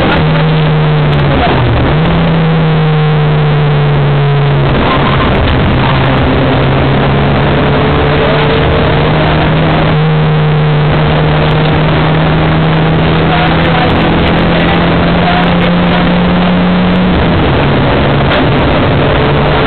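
Rally car engine running hard at high revs under load, heard loud from inside the cabin. The revs dip briefly about a second and a half in, drop around five seconds in, climb slowly for about twelve seconds, then drop again near the end.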